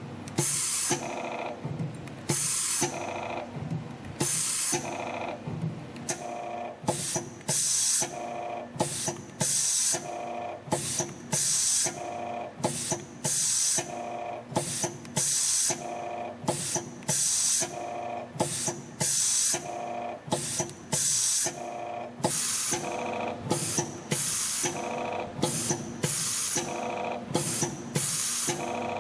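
WSF-1 CNC wave spring machine running in production, forming flat-wire wave springs in a regular cycle of about one every two seconds. Each cycle brings a few short hissing bursts over a steady mechanical running noise.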